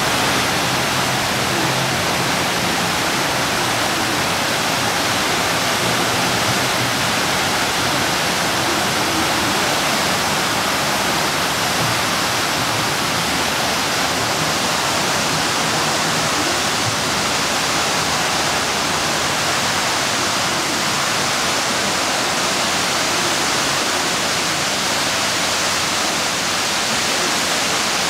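Water cascading over the artificial waterfalls at the Mirage hotel, a steady rushing splash that does not let up.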